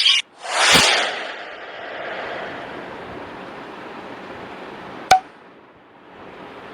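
Sound-effect clip: a short rush of noise swells and fades into a steady hiss, then a single sharp click about five seconds in.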